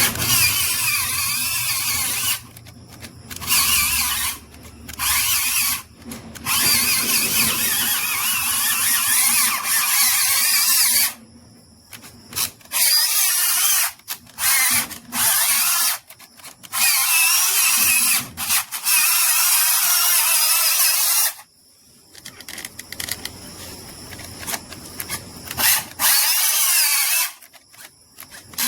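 A small handheld power tool, drill-like, run in repeated on-off bursts as it works material. The longest bursts last four to five seconds, with short blips and pauses between them.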